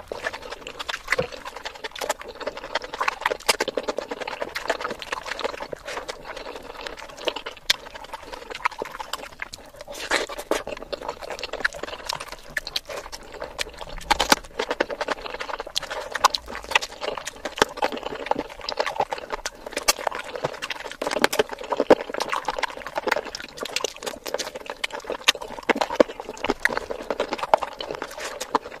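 Close-miked chewing and wet lip-smacking of a person eating curry and rice by hand, with many small irregular clicks and crunches. About halfway there is a sharper crunch as a raw red chili is bitten.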